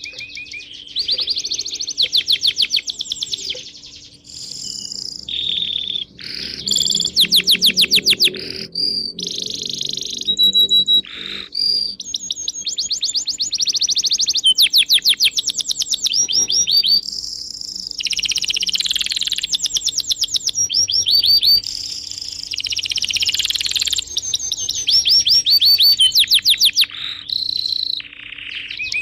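Songbirds chirping and twittering without pause, several voices overlapping, with frequent fast trills of rapidly repeated high notes.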